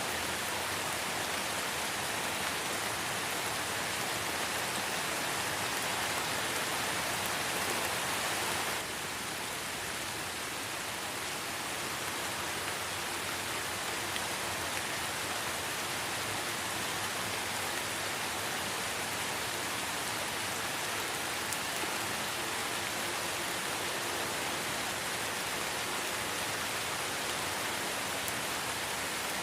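Light, steady rain falling in a forest, an even hiss of many drops. The level drops slightly and suddenly about nine seconds in.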